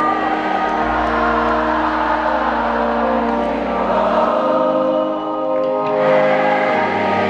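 Live band music at a concert: held keyboard chords with a large crowd singing along.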